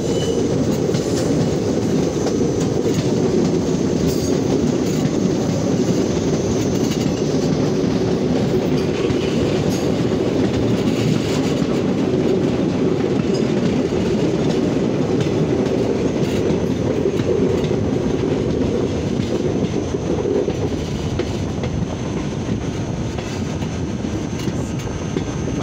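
A passenger train running along the track, heard from an open window of one of its coaches: a steady, loud rumble of wheels on rails. It eases off slightly near the end.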